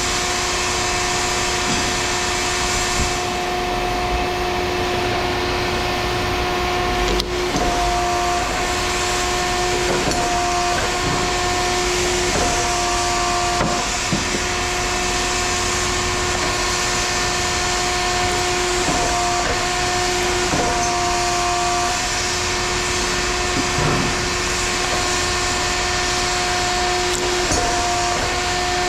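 A machine running steadily: a constant hum over a noisy rush, with a few faint clicks.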